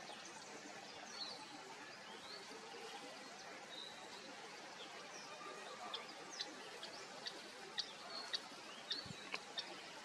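Birds chirping: short, high chirps and quick pitch sweeps, scattered at first and then coming several a second in the second half, over a faint steady outdoor background hiss.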